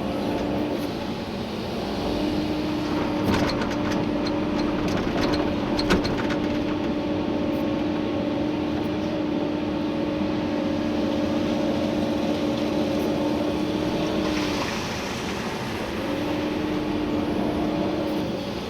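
Komatsu PC290-11 excavator's diesel engine and hydraulics, heard from inside the cab, working under load in two long stretches with a short easing between them. Several sharp knocks, like the bucket striking gravel and stone, come about 3 to 6 seconds in.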